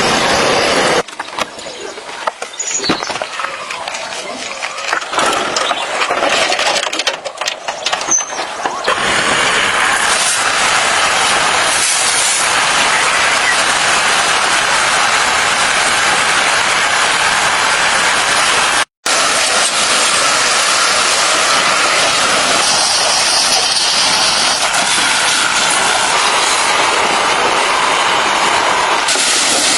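Loud, steady hissing rush of noise, uneven with scattered clicks at first, then holding steady from about a third of the way in, with a momentary break partway through.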